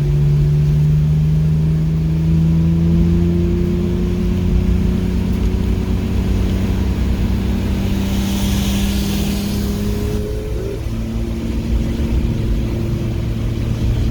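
Car engine pulling under load, its note rising slowly, then dropping suddenly about ten seconds in and holding steady. A brief hiss comes shortly before the drop.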